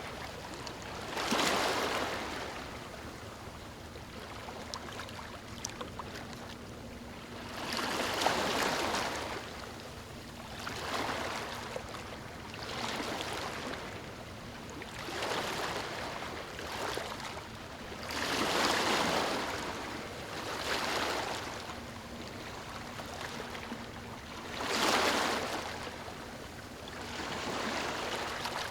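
Small waves lapping on a beach, each wash swelling and falling back, about every two to three seconds, with a few louder ones among them.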